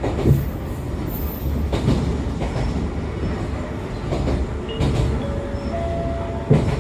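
Onboard running sound of an Echizen Railway MC6101-series electric railcar with MT54 DC series-wound traction motors: a steady low rumble with wheels knocking over rail joints every second or two, and a few brief whining tones about two-thirds of the way through.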